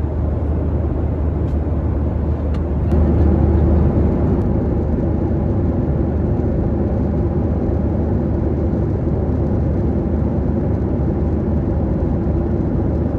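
Steady roar of a Boeing 737-700's engines and rushing air heard inside the passenger cabin. It gets louder about three seconds in, and a few faint clicks are heard before that.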